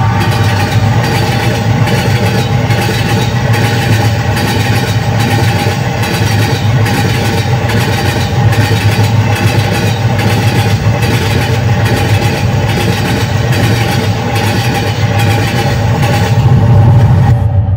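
A train passing close by: a loud, steady rumble with a low hum and an even clack from the wheels a little more than once a second. It fades out near the end.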